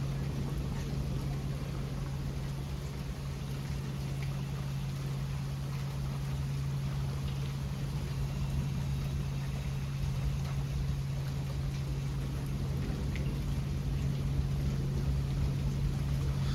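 Steady rainfall hissing, over a constant low hum.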